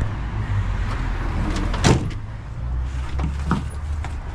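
Pickup truck driving: steady engine and road rumble, with a sharp knock about two seconds in and two lighter knocks near three and a half seconds.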